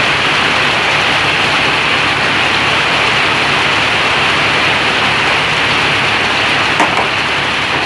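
Heavy hail falling in a dense, steady downpour of hailstones. A couple of sharper single impacts stand out about seven seconds in.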